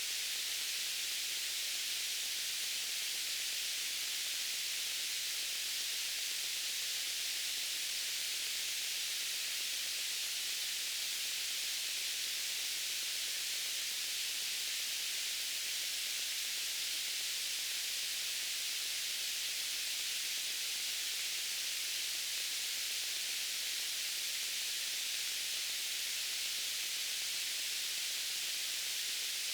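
Steady white noise: an even, unchanging hiss, weighted toward the high end.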